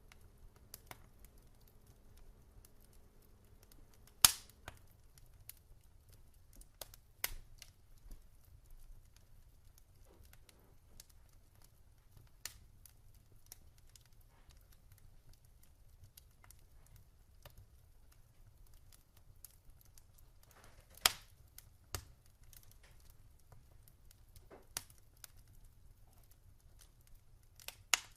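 Wood fire crackling: scattered sharp pops over a faint low rumble. The loudest pops come about four seconds in and again around twenty-one seconds in.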